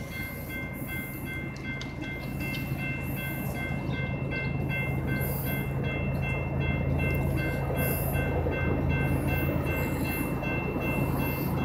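Approaching CSX freight train's diesel locomotives: a low engine hum that grows steadily louder as the train nears. Steady high ringing tones continue over it, typical of a grade-crossing warning bell.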